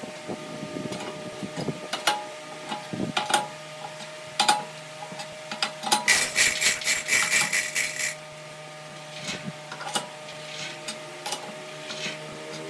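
Workshop handling sounds of wood and tools: scattered knocks and clicks, with a run of rapid scraping strokes for about two seconds past the middle, over a faint steady hum.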